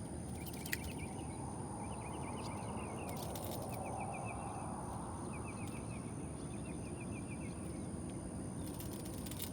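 Outdoor waterside ambience: small creatures chirping in short trills of rapid ticks, repeated every second or two over a steady high-pitched whine, with a few small clicks.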